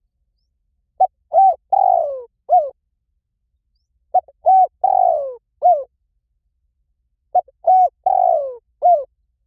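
Spotted dove cooing: three identical phrases about three seconds apart. Each phrase is a short note, an arched coo, a long falling coo and a short final coo, clean and without background noise.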